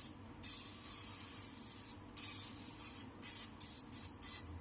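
Refrigerant gas hissing out of an opened refrigerator pipe as the line is blown through to clear an ice and dirt blockage. The hiss drops out briefly at the start and about two seconds in, then cuts in and out several times near the end.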